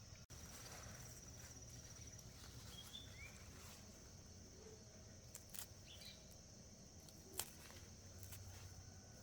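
Faint outdoor rural ambience: a steady high insect-like drone, a couple of short bird-like chirps about three seconds in, and a few sharp clicks, the loudest about seven seconds in.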